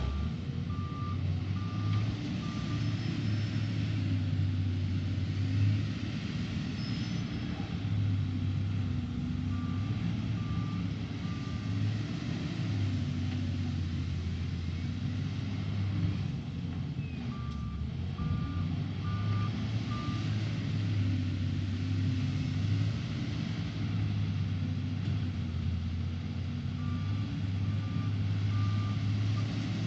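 SDLG LG958L wheel loader's diesel engine running under working load, swelling and easing through the loading cycle. A reverse alarm beeps in short runs of three or four beeps, four times.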